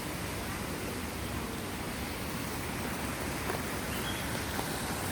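Steady, even hiss of outdoor noise with no clear single source.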